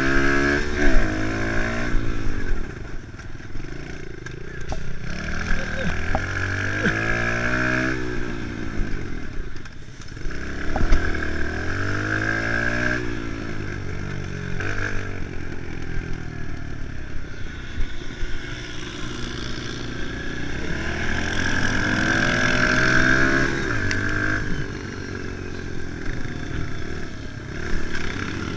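Kawasaki KLX110's small single-cylinder four-stroke engine under riding load, its pitch rising and falling several times as the throttle opens and closes through gear changes, with a few brief clattering knocks.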